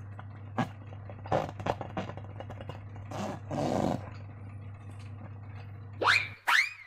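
Slime being squished and worked by hand, with irregular sticky squelches and clicks. Near the end come two loud squeaks that glide upward in pitch, like rubber rubbing.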